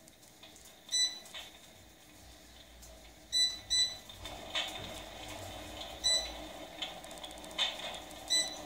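Electric plasma fireplace beeping five times as its settings are changed, short electronic beeps, two of them close together. Under them runs its crackling-fire sound effect: a hiss that grows louder about four seconds in, with a few sharp pops.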